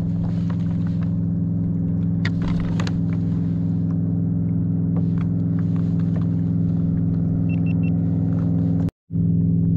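Boat motor running steadily at trolling speed, a constant low hum, with scattered light clicks and three short high beeps near the end. The sound cuts out for a split second shortly before the end.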